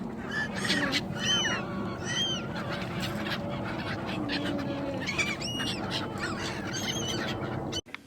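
Birds calling: a handful of short, high calls, each rising and then falling in pitch, over a steady background rumble that cuts off abruptly near the end.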